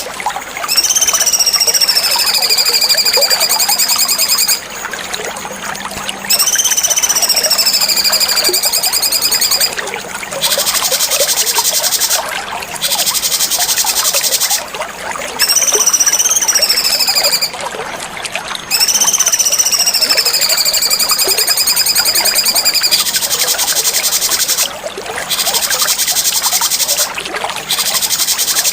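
Cucak cungkok songbird singing a run of long, harsh, buzzy song phrases, each two to four seconds long with a whistled note that rises and then slides down, repeated after short pauses.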